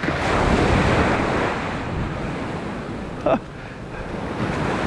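Sea surf washing onto a beach, with wind buffeting the microphone. The wash is loudest in the first second or so, and a brief voice-like sound comes about three seconds in.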